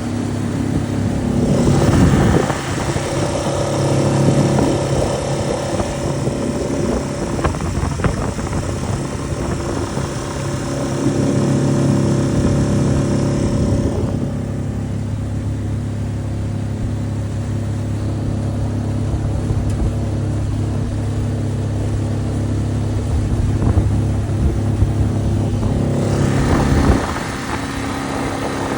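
Mercury (Tohatsu-built) 4 hp four-stroke outboard running steadily, pushing a small aluminium jon boat under way. A high rushing hiss of wind and water comes in about two seconds in, drops away about halfway through, and returns briefly near the end.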